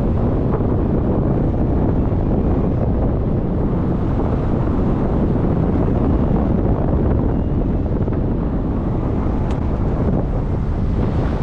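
Steady, loud wind rushing and buffeting over the camera microphone.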